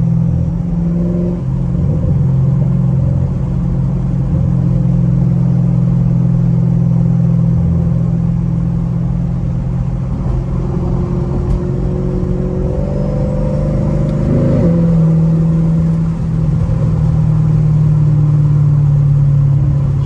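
Straight-piped Camaro SS V8 exhaust droning steadily while cruising. About fifteen seconds in, its pitch rises briefly and then settles at a new steady note.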